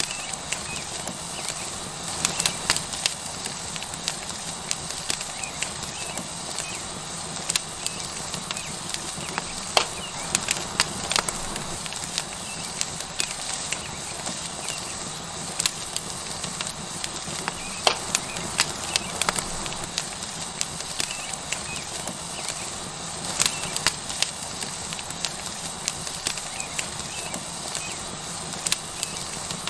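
Tomahawk steak sizzling on a hot rock over a wood fire: a steady hiss with frequent sharp crackles and pops from the burning wood.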